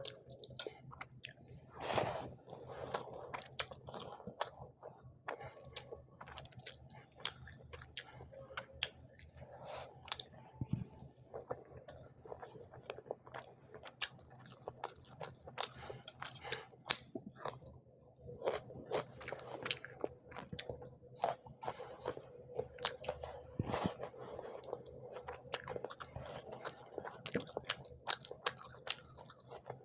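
Close-miked eating with the hands: steady chewing with many wet smacks and clicks as rice, egg curry and fried hilsa fish are eaten, with occasional crunches.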